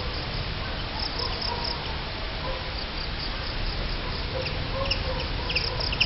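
Birds calling with short, high chirps in small clusters, more of them in the second half, over a steady low rumble.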